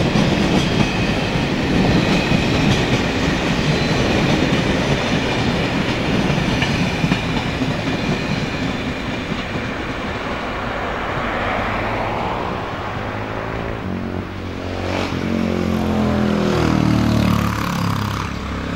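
An electric passenger train running past on the line, a steady loud rush of wheels on rail. In the last few seconds a low droning hum rises in level.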